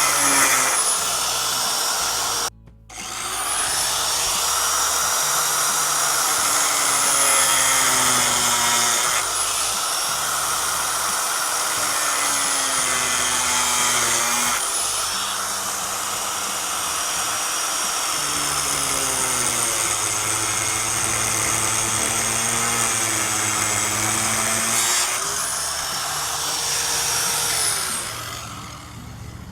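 Angle grinder cutting through a pop-up camper's ABS plastic roof and the roof-brace support bar around the AC opening. Its high whine sags and recovers as the disc bites and eases off. It cuts out for a moment about two and a half seconds in, restarts, and winds down near the end.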